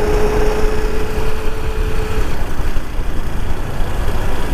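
Motorcycle running on the move, a steady engine and road rumble, with a steady hum that stops about two seconds in.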